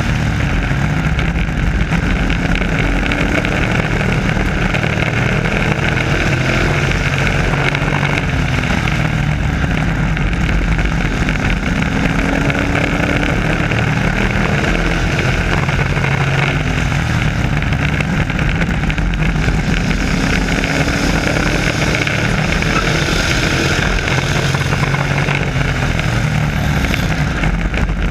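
Several race trucks' engines running at racing speed around an oval track, their pitch repeatedly rising and falling as the trucks accelerate, lift and pass by.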